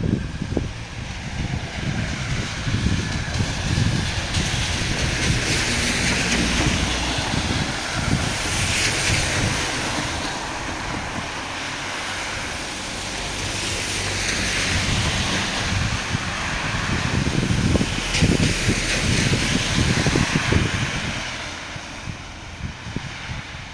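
Heavy rain hissing steadily, swelling and fading several times, with wind buffeting the microphone in an irregular low rumble.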